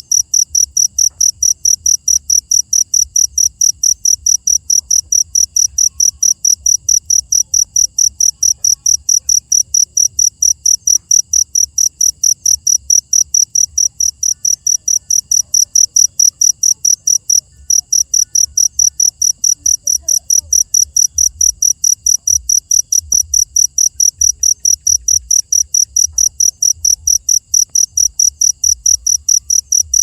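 A cricket chirping steadily: high-pitched, evenly spaced chirps about three a second, with one brief pause about halfway through.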